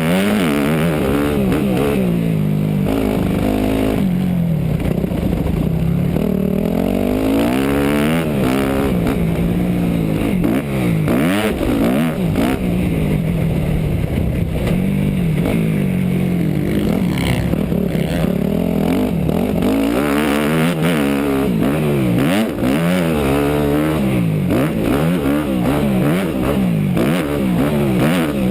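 A 250cc four-stroke motocross bike's engine, heard from onboard and loud throughout, revving up and dropping back again and again as it accelerates and backs off around the track.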